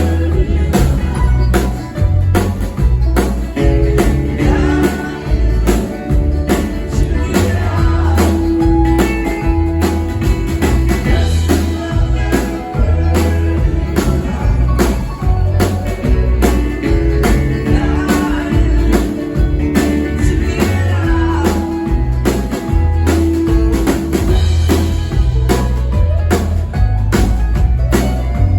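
A string band playing a song live, with drums, bass and guitar. The bass line is strong and a steady drumbeat runs through it.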